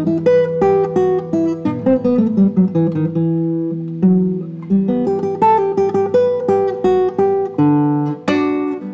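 Solo acoustic guitar playing a melody of plucked notes over held bass notes, with a strummed chord near the end.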